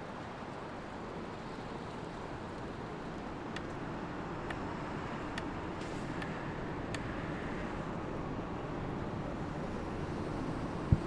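Steady road-traffic noise, slowly getting louder, with a few faint clicks in the middle.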